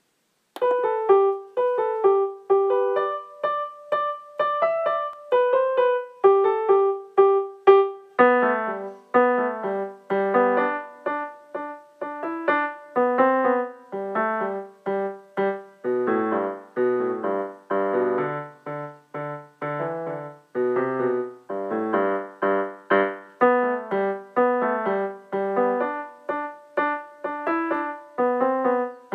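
Background piano music: a steady melody of struck notes, with a bass line joining about a third of the way in and fuller chords in the middle.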